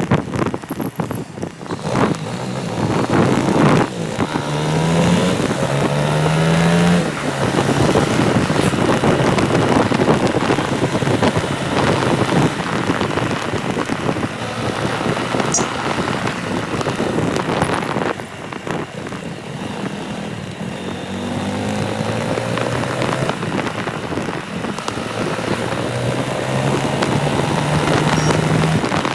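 Motorcycle engine running on the road, its pitch rising through the gears twice, with heavy wind noise rushing over the microphone.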